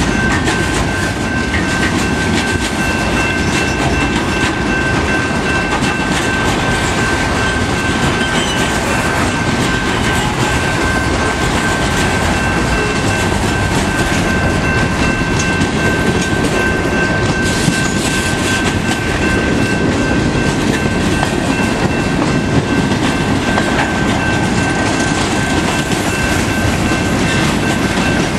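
Covered hopper cars of a CSX freight train rolling steadily past at track side: a continuous rumble of steel wheels on rail, with a steady high-pitched tone held over it.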